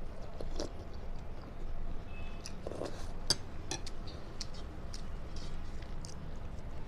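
Close-miked chewing of food, with irregular small wet clicks and crunches from the mouth.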